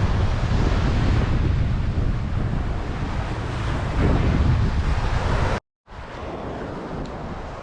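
Heavy wind rumbling on the microphone over ocean surf. About five and a half seconds in the sound cuts out for a moment, then returns quieter.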